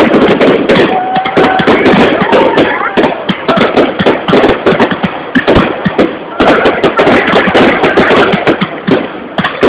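Many fireworks and firecrackers going off at once: dense, unbroken crackling and popping, loud and distorted.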